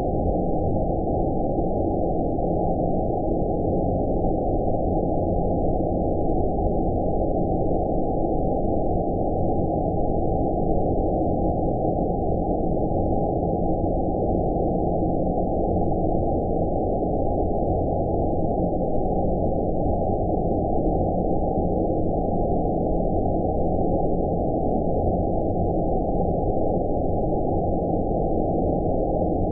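Steady, low rumbling noise with nothing above about 1 kHz, unchanging throughout: a low-pass-filtered 'outer space' white-noise track made for sleep.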